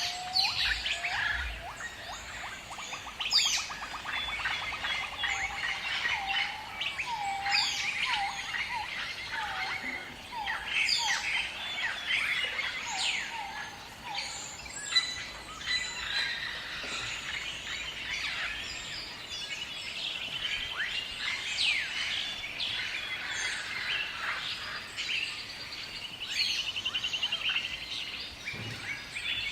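A chorus of many birds calling at once: overlapping chirps, whistled notes and short trills, with a fast low trill and a run of falling notes near the start.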